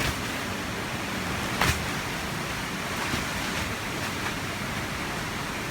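Hurricane wind rushing steadily, an even noisy roar with no speech. There is a single brief click about one and a half seconds in.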